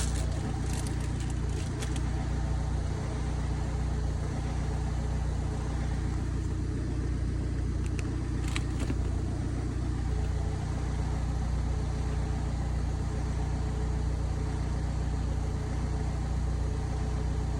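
BMW E92's engine idling steadily, a constant low rumble, with a few light clicks near the start and again about eight seconds in.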